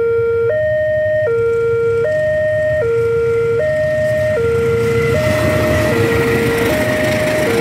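Level-crossing warning alarm sounding a steady two-tone alternation, higher then lower pitch, each tone about three-quarters of a second. From about five seconds in, the noise of an arriving train grows over it.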